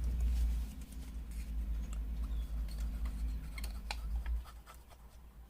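Paper collage pieces being handled on a craft table: soft rustles and light clicks, over a low steady rumble that stops about four and a half seconds in.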